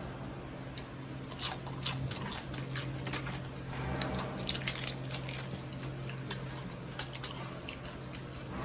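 A person biting into and chewing crispy deep-fried pork knuckle skin close to the microphone: a run of irregular crunches and crackles, with a steady low hum underneath.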